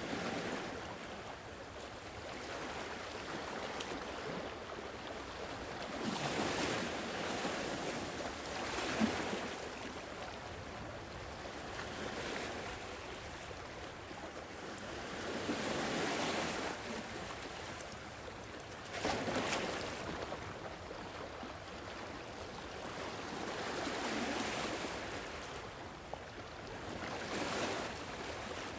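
Sea waves washing onto a shore, swelling and receding every few seconds, with one sharper break about two-thirds of the way through.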